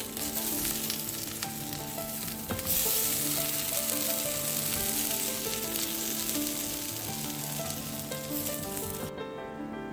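Food frying in a hot pan, a dense sizzle that grows louder about three seconds in and cuts off abruptly near the end, with a few light clicks. Soft background music plays underneath.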